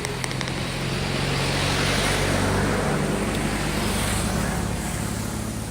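A motor vehicle driving past on the road, its engine and tyre noise swelling to a peak about two seconds in and then fading away.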